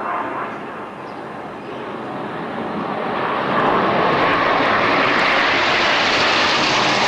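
A steady rushing, engine-like noise that swells over the first three or four seconds and then holds loud.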